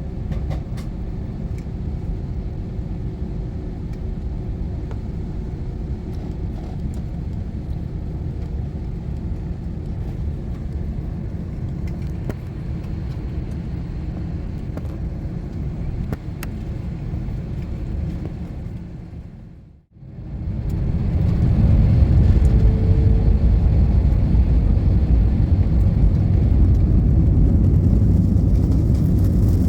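Airbus airliner's cabin noise: a steady low rumble of the engines while the plane moves on the ground. Just before two-thirds through it fades out briefly, then comes back much louder and stays steady as the engines run at takeoff power for the takeoff run.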